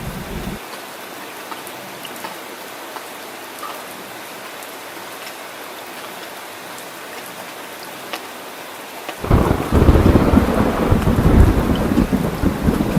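Rain falling in a steady hiss. Thunder rumbles briefly at the start, cuts off about half a second in, and a loud new roll of thunder breaks in suddenly about nine seconds in.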